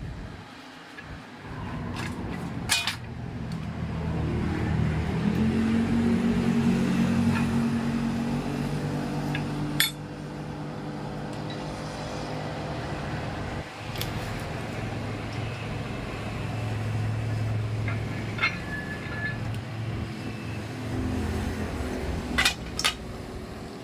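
An engine running steadily, speeding up about four seconds in and easing back after about ten seconds. A few sharp metallic clinks come through, one near the end a double.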